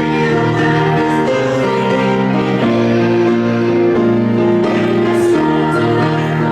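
Congregation singing a hymn in unison with instrumental accompaniment, long held notes moving steadily from one to the next.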